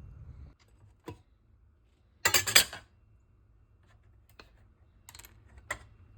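Kitchen utensils and dishware knocking and clinking: a single click about a second in, a short rattling clatter just after two seconds, then a few lighter clicks near the end.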